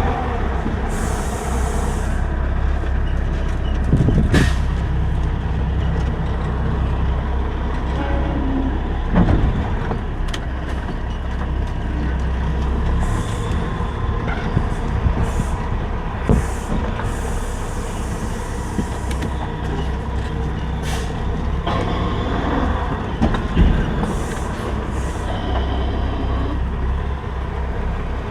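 Semi truck's diesel engine running steadily, with a low rumble, and a few short hisses of air coming and going.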